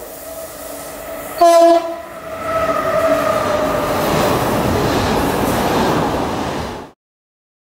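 Approaching locomotive-hauled train. The locomotive gives a short, very loud horn blast about a second and a half in, then its noise grows as it runs in toward the platform. The sound cuts off abruptly near the end.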